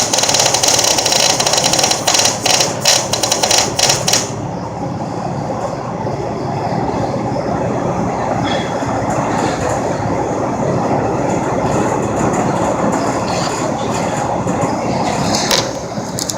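Millermatic MIG welder arc crackling and sizzling steadily, cutting off abruptly about four seconds in. A duller, steady noise follows.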